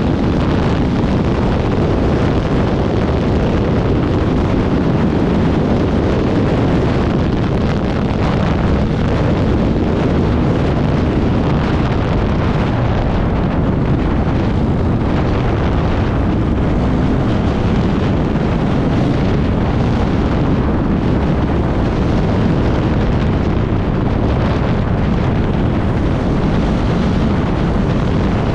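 Off-road motorcycle riding at speed, with heavy wind buffeting the microphone over the running engine.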